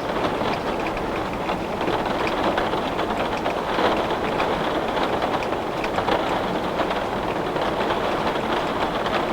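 Heavy rain falling on window glass: a steady, dense hiss scattered with many small, sharp drop hits.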